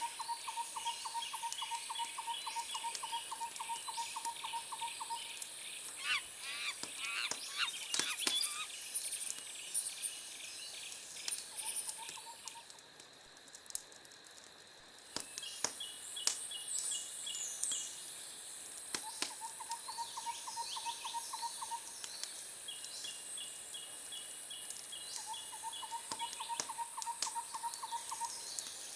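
Crackling wood fire with scattered sharp pops over a night nature ambience: a steady high insect buzz and repeated pulsed trilling calls that come in runs of a few seconds.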